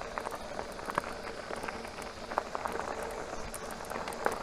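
Bicycle riding uphill in its lowest gear: a steady rolling hiss with scattered small irregular clicks and rattles from the tyres and drivetrain.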